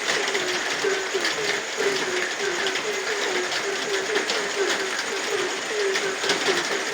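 Frogs croaking in a fast, even series of short low calls, several a second, over steady rain with scattered sharp drips. A higher-pitched chorus runs on beneath.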